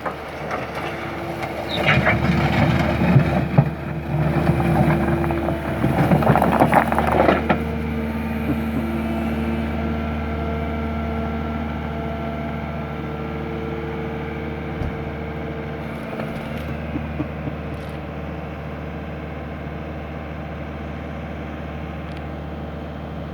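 Skid steer loader engine running steadily. From about two to seven and a half seconds in there is loud crunching and scraping.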